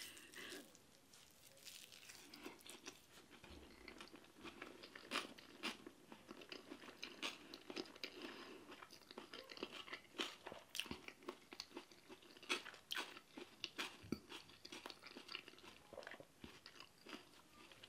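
Faint, close-miked chewing of a mouthful of cauliflower, with irregular small crunches and wet mouth clicks.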